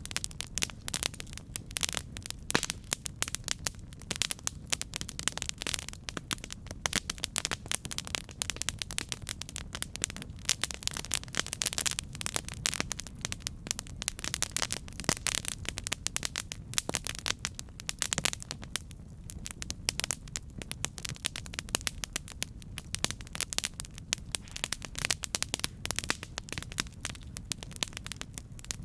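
Campfire burning, a steady run of irregular sharp crackles and pops over a low rumble.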